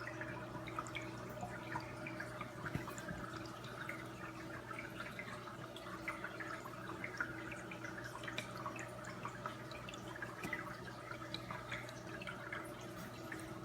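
Paludarium waterfall trickling, with many small irregular drips splashing into the water, over a steady low hum.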